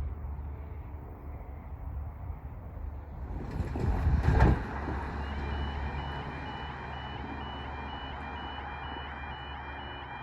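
A level crossing warning alarm starts up about five seconds in: a high yelping tone that repeats several times a second, signalling that the barriers are about to come down for an approaching train. Just before it, a road vehicle passes by briefly and loudly, over a low steady engine hum.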